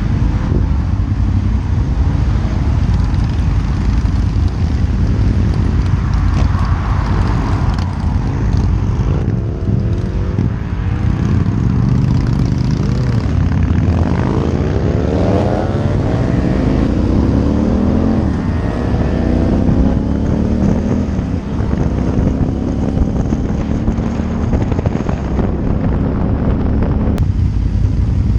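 Honda Varadero 1000 V-twin motorcycle engine under way, its revs rising and falling through the gears, over a heavy low rush of wind.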